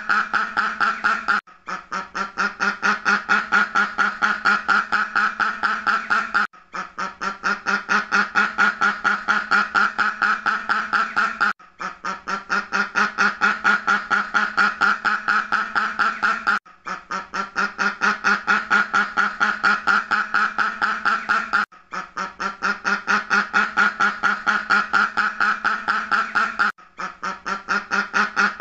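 Duck quacking in a rapid, steady run of about five quacks a second. It is a looped recording that breaks off briefly and starts over about every five seconds.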